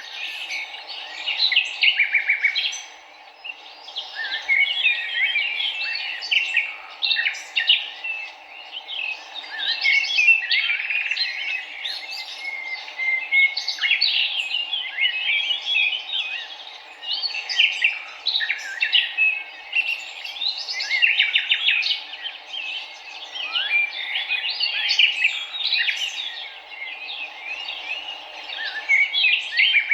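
Many birds chirping and singing in a dense, continuous chorus of quick overlapping chirps and trills, over a faint steady background hiss.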